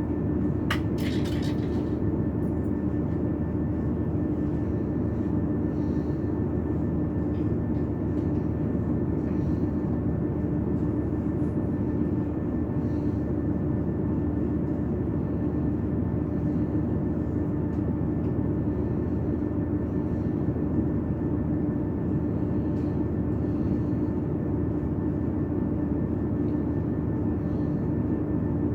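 Steady drone of a train heard from inside the carriage: an even rumble with a constant hum and fainter steady tones above it. A brief burst of sharp, high clicking comes about a second in.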